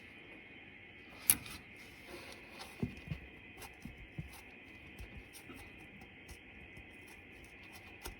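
Scattered light clicks and knocks of metal tools and parts being handled while working on the engine, with one sharp knock about a second in. A steady faint hiss runs underneath.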